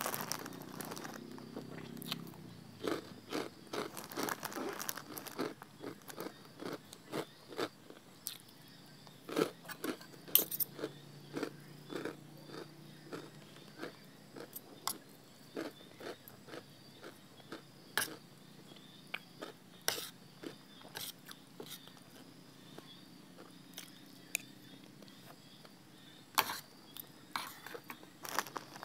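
A person chewing and crunching crisp pork cracklings (khaep mu) with roasted chilli paste, with irregular sharp crunches and clicks throughout.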